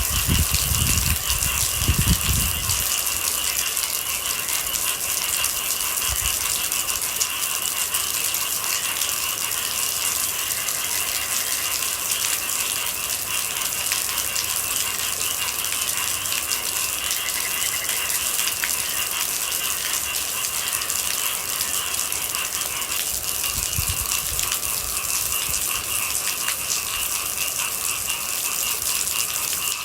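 Steady rain pattering densely, with low rumbles in the first couple of seconds and again around 24 seconds in.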